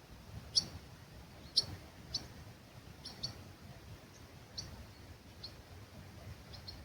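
Wild bird giving short, high chirps about once a second, the loudest two in the first two seconds, over a faint low hum of breeze.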